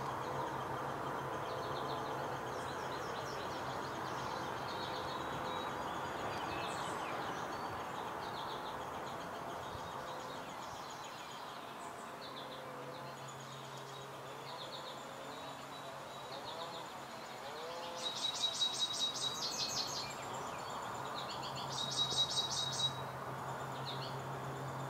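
Backyard songbirds chirping, with two loud rapid trills in the second half, each lasting about a second and a half, over a steady low hum.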